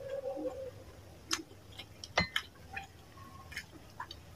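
Close-miked mouth sounds of eating: scattered wet smacking clicks from chewing fish curry and rice, the loudest about two seconds in.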